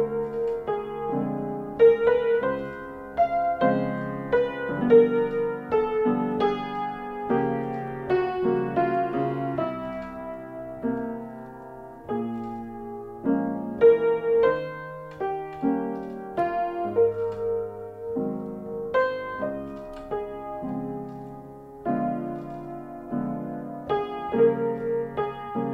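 Solo piano music: struck chords in the low and middle range under a melody line, with each note ringing and fading.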